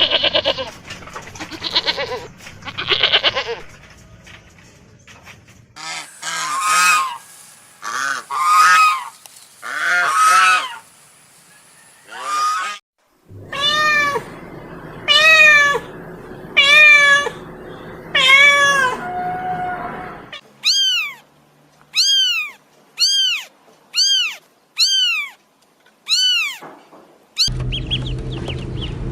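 Calls from several different farm and pet animals, one short clip after another with abrupt changes between them. Much of it is a run of repeated calls that rise and fall in pitch, and the last run is shorter and higher.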